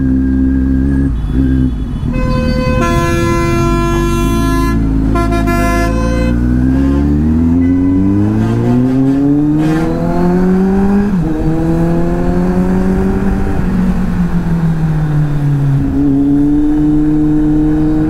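Kawasaki Z800 inline-four engine accelerating, rising in pitch through a gear change, then easing off and settling to a steady cruise, with low wind rumble. A vehicle horn sounds in a few blasts about three to six seconds in.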